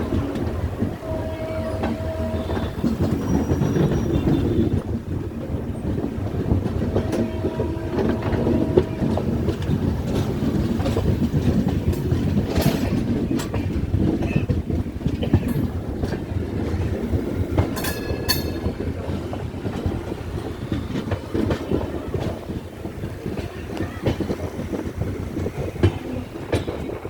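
Passenger express train running on rails: a steady heavy rumble with wheels clattering over rail joints, and a few sharp metallic squeals and clanks about halfway through.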